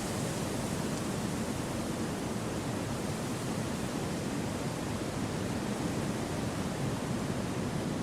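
Wind blowing through forest trees as a steady, even rushing hiss, with no gusts, rises or breaks.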